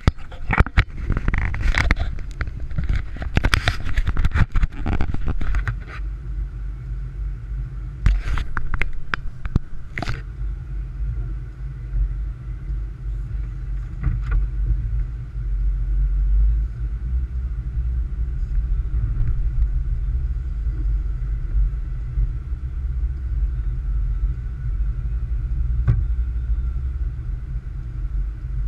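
Car driving on a snow-covered road: a steady low rumble of tyre and engine noise. Bursts of knocks and rustles come in the first six seconds and again around eight to ten seconds in.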